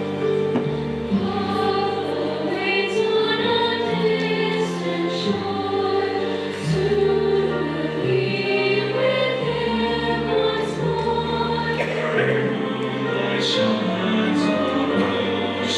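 A choir singing a song with accompaniment, held notes changing every second or two over a steady low bass line.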